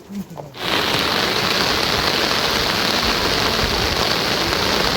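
Heavy rain falling, a dense steady hiss that starts abruptly about half a second in.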